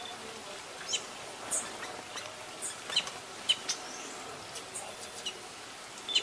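Songbirds giving scattered short, sharp chirps, about half a dozen, over a steady faint outdoor hiss.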